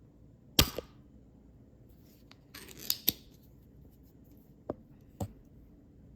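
Spring-loaded solder sucker (desoldering pump) firing with a sharp snap about half a second in as it clears solder from a relay pin on a circuit board, followed by a short scraping rattle with clicks around three seconds in and two more short clicks near the end.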